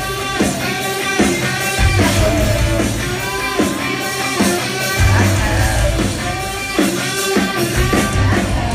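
Live rock band playing loudly, electric guitar to the fore over bass and drums, during an instrumental stretch of the song.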